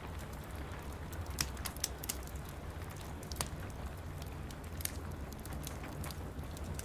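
Wood fire in a fireplace crackling, with irregular sharp pops and snaps over a steady low rumble and soft rain hiss.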